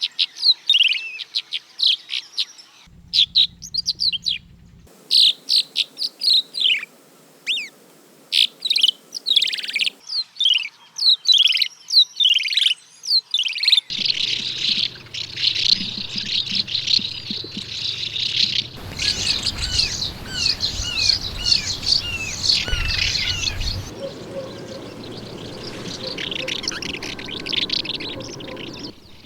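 Swallows calling and twittering in rapid, dense chirps and short down-slurred notes, in several separate recordings joined one after another, the background changing abruptly at each join.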